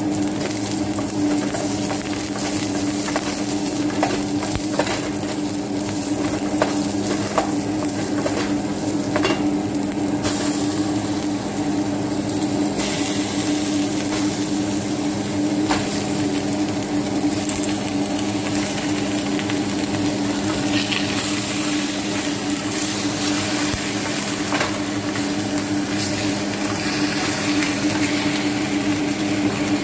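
Onion, garlic and ginger sizzling in a hot stainless steel pot, stirred with a wooden spoon that scrapes and clicks against the pot. The sizzle turns brighter about thirteen seconds in, as raw chicken pieces go into the pot. A steady low hum runs underneath.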